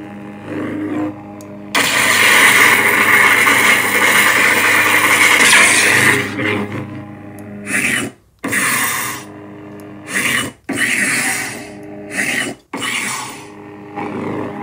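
Lightsaber sound board playing the "The White" sound font through a 28mm full-bass speaker: a steady hum with swing sounds surging over it. A long, loud surge runs from about two to six seconds, then several shorter swings follow.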